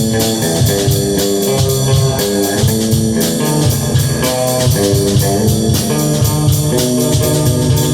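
Guitar and drum kit playing a song together at rehearsal, sustained guitar chords over a steady, busy drum beat with cymbals.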